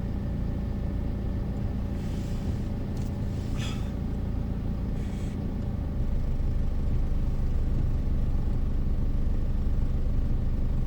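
Car driving on the road: a steady low rumble of road and engine noise, with a few short hisses about two, four and five seconds in, growing a little louder about six seconds in.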